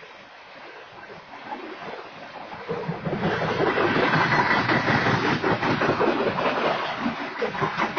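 Freight train of hopper cars rolling past, the wheels clattering on the rails. It is a soft rumble at first and grows to a loud, rapid clatter about three seconds in.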